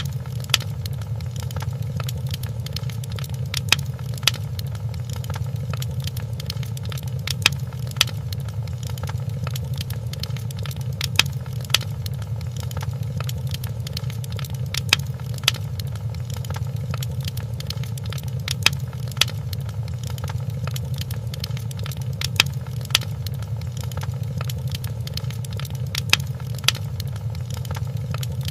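Wood fire in a fireplace crackling: a steady low rumble with sharp pops that come in pairs about every four seconds.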